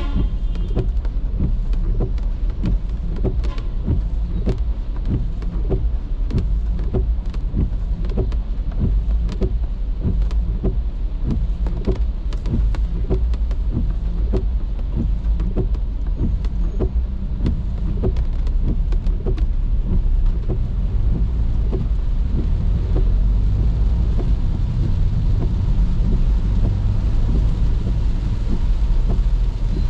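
Car driving in the rain, heard from inside the cabin: a steady low road rumble and the hiss of rain on the car. Over it, sharp regular ticks come a little more than once a second and fade out about two-thirds of the way through.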